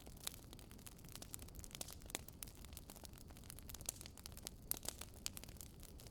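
Wood fire in a fireplace crackling: irregular sharp pops and snaps over a low steady rumble, with a few louder pops a little past the middle.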